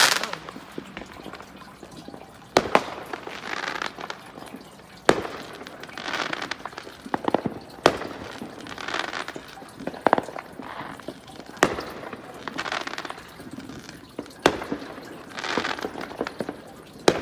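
Distant consumer fireworks going off around the neighbourhood: separate bangs every second or few, several followed by a spell of crackling.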